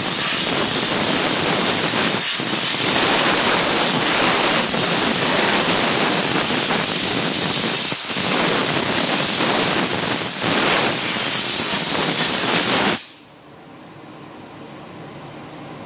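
Steam-cleaner wand jetting steam with a loud, steady hiss, stopping suddenly near the end.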